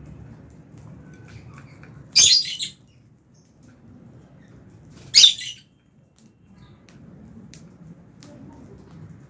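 Lovebirds squawking: two loud, shrill calls about three seconds apart, with faint short chirps between them.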